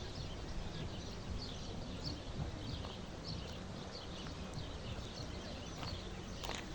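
Small birds chirping repeatedly over a steady low rumble, with a few sharp clicks near the end.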